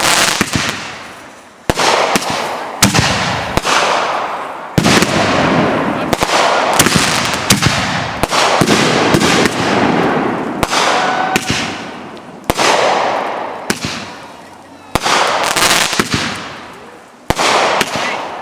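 Consumer fireworks going off in a rapid barrage: a sharp report every second or two, each followed by a long crackling, fizzing tail that fades out, with quick strings of smaller pops between them.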